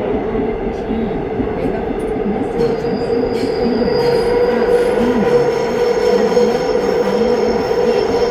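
Busan Metro train running, a steady rumble. A high steady whine comes in about three seconds in and a second tone joins it about a second later, as the sound grows louder.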